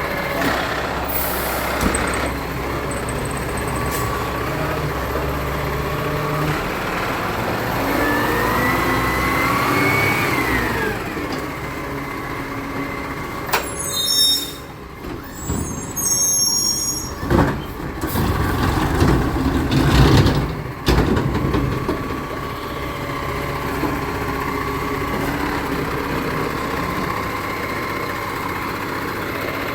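Recycling truck's engine running, with a rising then falling whine about eight to eleven seconds in. Brief high squeals and hiss follow, then several heavy clunks around the twentieth second.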